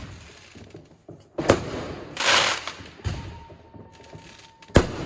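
New Year fireworks going off: four sharp bangs spaced about a second and a half apart, each trailing off in a long echoing rumble, with a burst of crackling hiss between the second and third.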